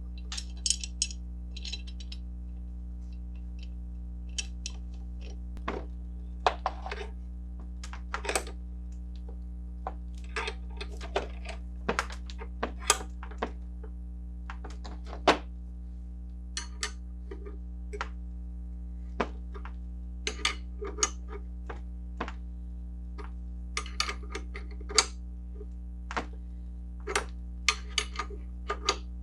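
Irregular metal clicks, taps and knocks of a hand tool on a Crosley water pump's packing nut as it is worked down and tightened, over a steady low hum.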